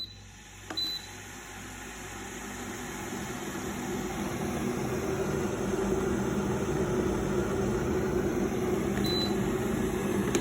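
Kitfort KT-601 electric kettle switched on again with a short beep, heating water that is already hot. The water's rushing, rumbling noise grows steadily louder as it comes back up to the boil, with further short beeps from the control panel just under a second in and near the end.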